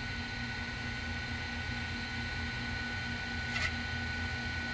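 Steady electrical and machinery hum in a machine shop, with a couple of constant high whining tones, and one faint click about three and a half seconds in.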